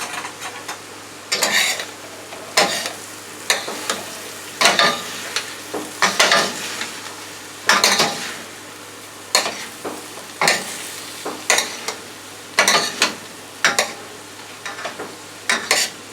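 Vegetable stir fry sizzling in a hot pan while being stirred and tossed with a utensil, with loud scraping bursts roughly once a second over a steady sizzle.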